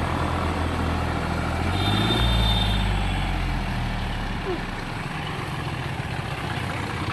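Vehicle engine running, its rumble swelling about two seconds in and easing off after about four seconds.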